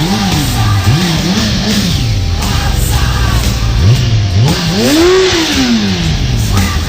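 Racing motorcycle engine revving up and down in several quick blips, then one longer rev that climbs and falls away, over background music.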